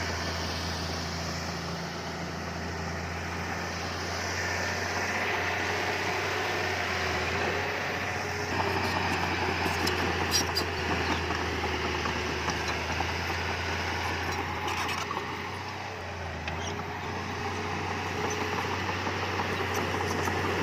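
Heavy earthmoving machinery's diesel engine running steadily, with a few short clicks around ten seconds in.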